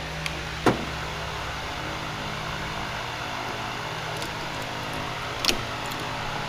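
A steady low machine hum, with two sharp knocks: one just under a second in and one near the end.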